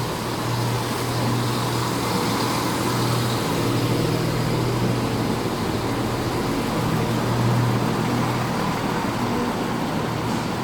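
Class 170 Turbostar diesel multiple unit with its underfloor diesel engines running, a steady low drone over a continuous rumble.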